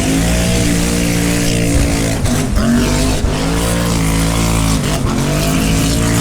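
A car's V8 engine held at high revs during a burnout, its pitch dipping and climbing back twice, over the hiss of spinning tyres.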